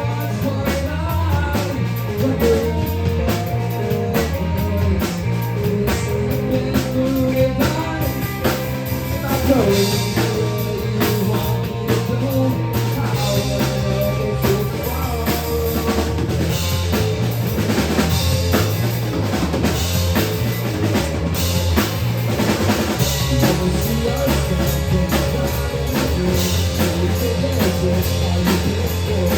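Rock music, a drum kit keeping a steady beat under bass and guitar, with no singing in this stretch.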